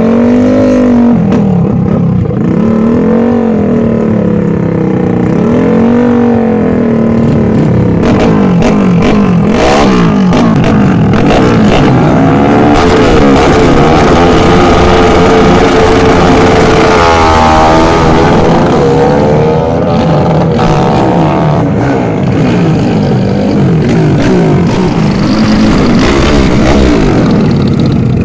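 Motorcycle engines revving in short repeated blips, then several bikes running hard at once, their engine notes climbing and falling, with one sharp sweep in pitch past the middle.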